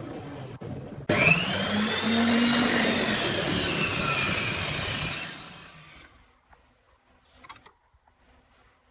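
Electric power tool cutting into wood: it starts suddenly about a second in, runs loud with its motor pitch rising and falling under load for about four seconds, then dies away. A few faint clicks follow near the end.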